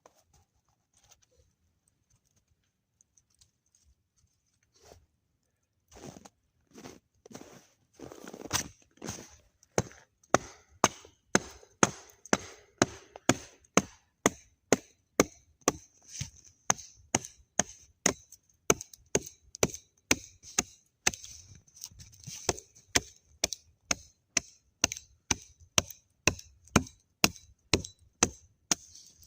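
Wood being chopped with an axe: sharp, rapid strikes at an even pace of about two a second, starting about six seconds in and growing louder.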